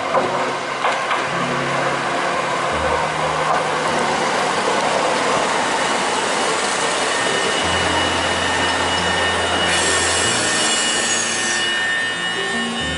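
Eizan Electric Railway "Hiei" single-car electric train rolling into the station, its wheels and running gear rumbling and grinding on the rails as it passes close by. A burst of high hiss comes about ten seconds in, and background music plays underneath.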